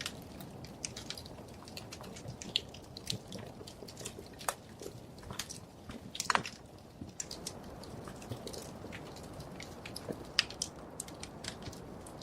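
Wood fire crackling: irregular sharp pops and snaps over a steady low rumble of flame, with one louder pop about six seconds in.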